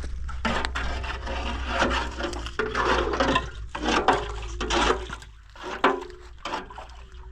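Water splashing and sloshing in irregular bursts, with rubbing, as clothes are washed by hand.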